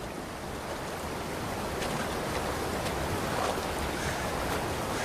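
Steady rushing water noise that grows slightly louder.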